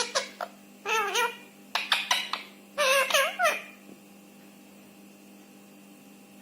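Indian ringneck parrot talking in short, high-pitched mimicked phrases with clicks between them for about three and a half seconds, then falling silent over a steady faint hum.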